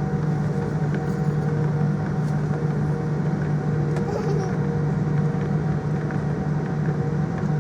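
Steady drone of an airliner cabin, engine and air-system noise with a faint steady hum through it and a few light ticks.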